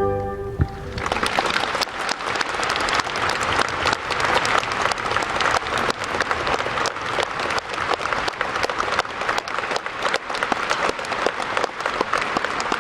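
Large concert audience applauding, dense clapping that swells in about a second in as the last held chord of the song dies away.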